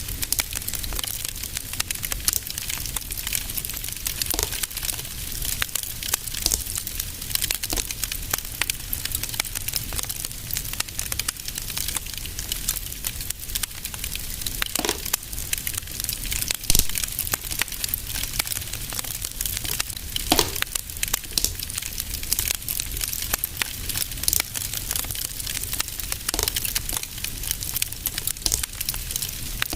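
Wood fire crackling steadily in a fireplace: a constant soft hiss full of small quick crackles, with a few louder pops scattered through.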